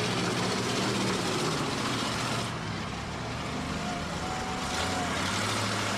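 Demolition derby car engines running together in a steady, loud din. The higher part of the noise drops away about two and a half seconds in.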